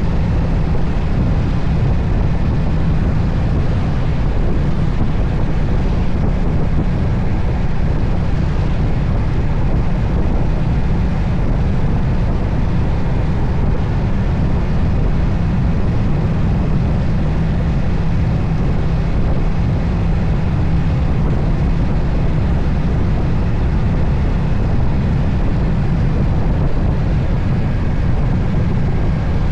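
Moto Guzzi Stelvio's transverse V-twin engine running at a steady road speed, under a constant rush of wind over the microphone.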